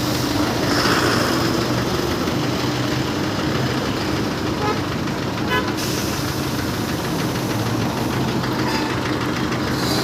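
An engine running steadily at an even idle, with a couple of brief, short high chirps about halfway through.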